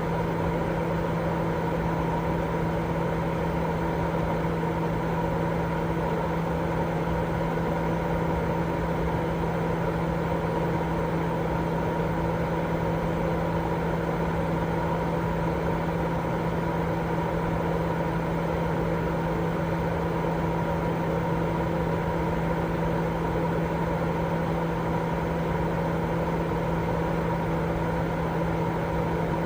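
Continuous baby-sleep white noise, steady and unchanging, heavier in the low and middle range, with a steady low hum running through it like a running appliance.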